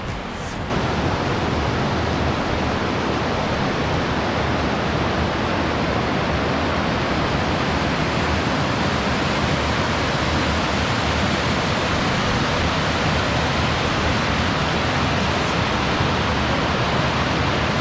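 Waterfall rushing: a loud, steady roar of falling water that comes in abruptly about a second in and holds unchanged.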